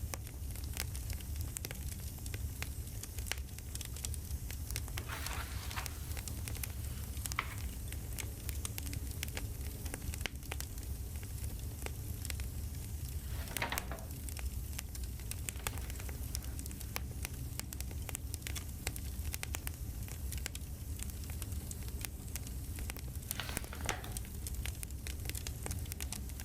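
Campfire crackling with frequent small pops over a steady low rumble, with a few brief hisses about 5, 14 and 24 seconds in.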